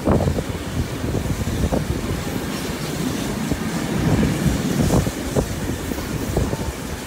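A passenger train running along the line, heard from a carriage window: wheels rumbling on the rails with occasional sharp clicks over the rail joints, and wind on the microphone.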